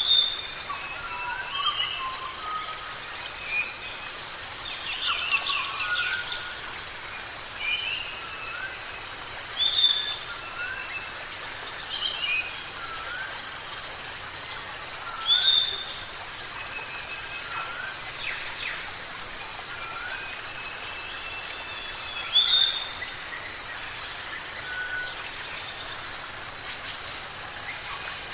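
Birds calling over a steady background hiss: short whistled chirps throughout, a sharper call repeated about every six seconds, and a busy burst of chatter about five seconds in.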